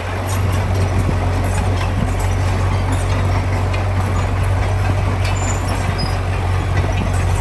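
Heavy diesel engine of an earthmoving machine running steadily under load with a deep, even hum, getting a little louder right at the start.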